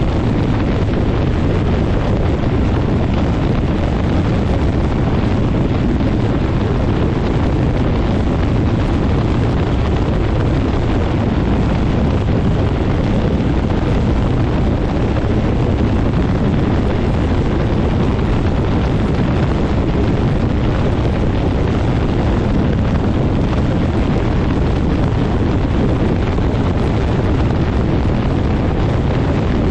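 Quicksilver MX ultralight's engine and propeller running steadily, largely buried under heavy wind buffeting on the microphone from the prop blast.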